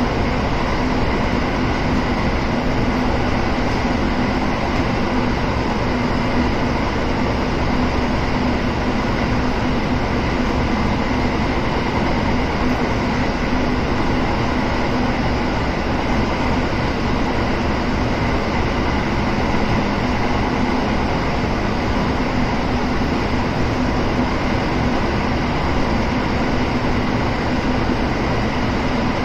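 Running noise heard aboard a Kintetsu 7000 series electric train at a steady pace: wheels on rail with a constant hum from the drive, no change in pitch.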